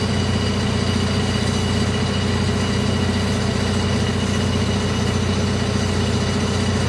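Steady drone of a large engine running at idle, even throughout, with faint steady high-pitched tones above it.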